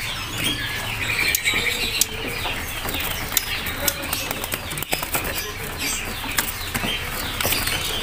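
Caged songbirds fluttering and chirping: many short, sharp wing flaps with scattered high chirps.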